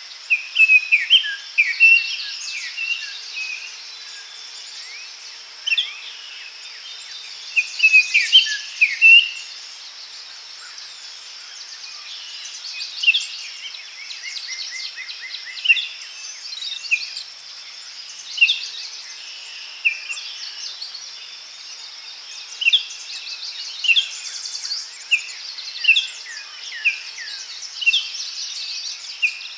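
Daytime forest ambience: songbirds chirping and trilling, with bursts of song near the start and about eight seconds in, then single short calls every second or two. Underneath runs a steady high-pitched insect hiss.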